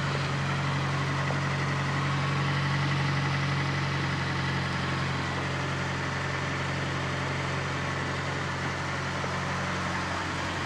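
Fiat Panda 4x4 Sisley's fuel-injected petrol engine idling steadily just after a cold start below freezing, running smoothly at an even idle with no stumbling.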